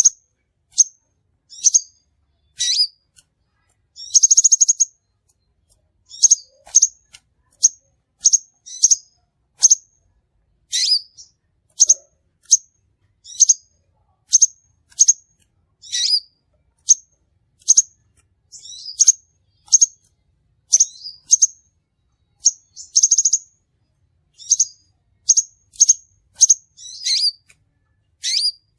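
Crimson sunbird calling: a steady series of sharp, high chirps, about one or two a second. Twice, once about four seconds in and again past the middle, it gives a short buzzy trill.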